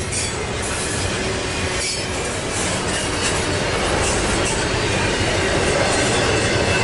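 Double-stack intermodal freight train's well cars rolling past close by: a steady rumble of steel wheels on rail, with short clacks as the wheels pass rail joints.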